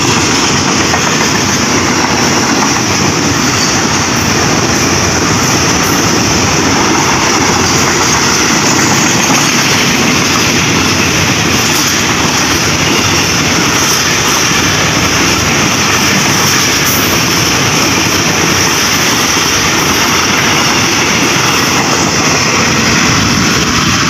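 Long freight train of container flatcars rolling past at close range: a steady, loud noise of steel wheels running on the rails.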